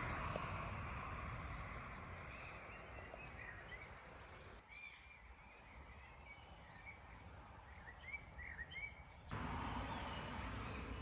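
Faint outdoor ambience with a small bird chirping repeatedly in short rising-and-falling notes.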